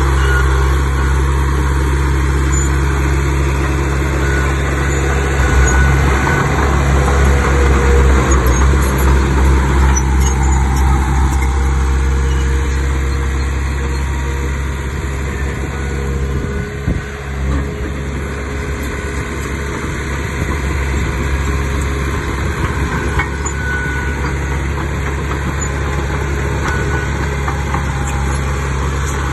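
Diesel engine of heavy earthmoving machinery running steadily with a deep rumble, swelling for several seconds about five seconds in, then easing.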